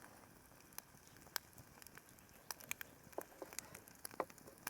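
Wood campfire crackling faintly, with sporadic sharp pops and ticks at irregular intervals.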